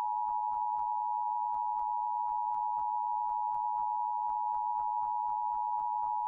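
Emergency Alert System attention signal: a steady two-note electronic tone held without a break.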